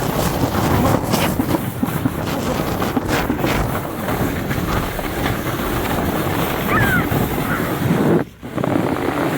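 Wind rushing hard over the microphone and a sled sliding fast over snow during a downhill run, with scattered knocks from bumps along the way. The noise dips briefly near the end.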